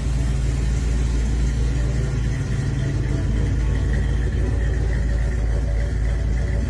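Chevrolet small-block V8 engine running steadily at idle, a continuous low rumble.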